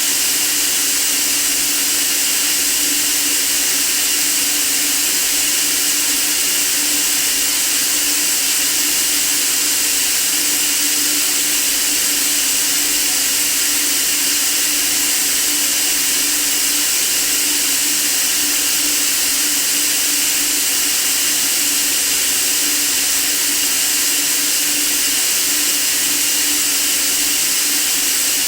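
Steady white noise, a constant bright hiss with a faint low hum underneath, unchanging throughout.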